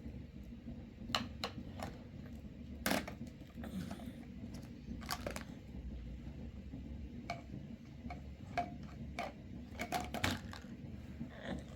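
Scattered light clicks and knocks at irregular intervals, one louder knock about three seconds in and a cluster around ten seconds, over a low steady background hum.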